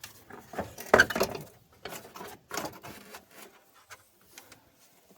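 Hand-handling noise of car wiring-harness connectors and parts under the hood: a cluster of clicks, knocks and rattles, loudest about a second in, thinning out after about three seconds.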